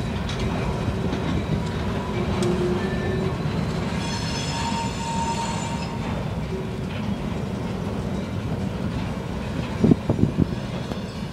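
Freight cars rolling slowly over a grade crossing: a steady rumble of steel wheels on rail, with a high-pitched wheel squeal about four seconds in that lasts a couple of seconds, and a few clanks near the end.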